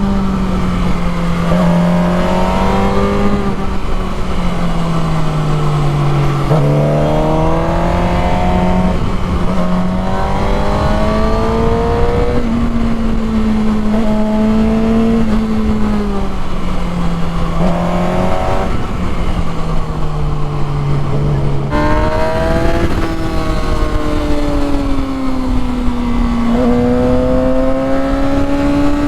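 Motorcycle engine under way, its pitch rising and falling with the throttle and jumping suddenly several times at gear changes, over a steady rush of wind and road noise.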